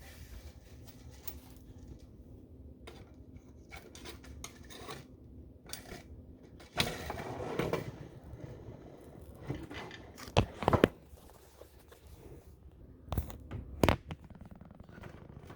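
Handling noise of faucet parts and tools being worked on a bathroom sink: faint rustling and scraping, a louder scrape lasting about a second midway, and a few sharp clicks or knocks later on.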